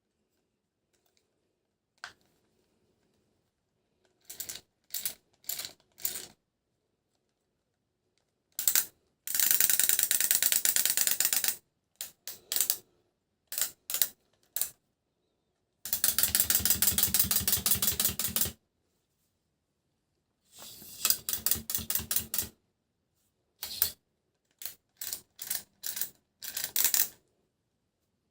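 Plastic toy train gears clicking and whirring in short bursts with silence between. There are several brief runs, and two longer ones of about two seconds each near the middle.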